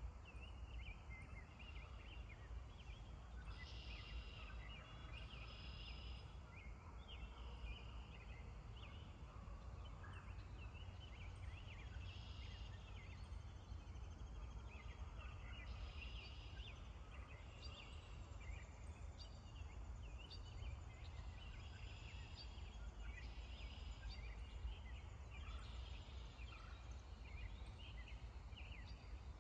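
Small birds chirping and calling over and over, with a faint steady low rumble underneath.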